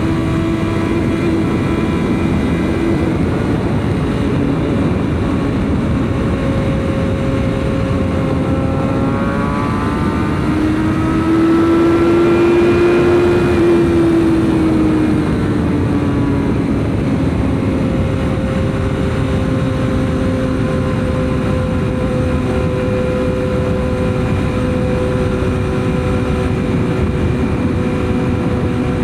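BMW S1000RR's inline-four engine running at steady revs under a rush of wind and road noise. About ten seconds in the revs rise and grow louder, then ease back down a few seconds later and hold steady again.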